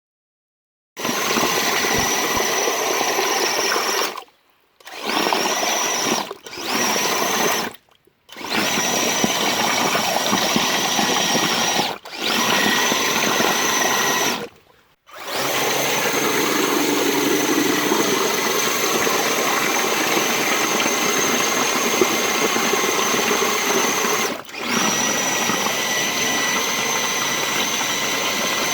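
Electric RC truck motor and gearbox whining under power as it drives, stopping and starting again several times.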